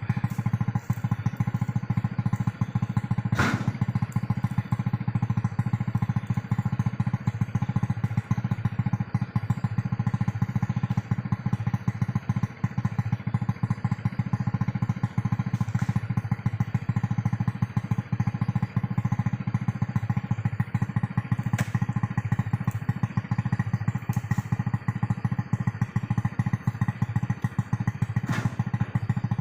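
Homemade vehicle's Honda Revo Absolute motorcycle engine, a single-cylinder four-stroke, running steadily. A few short knocks sound over it, the loudest a few seconds in.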